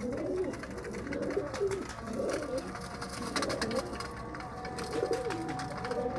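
Several domestic pigeons cooing at once, a continuous overlapping chorus of low, warbling coos.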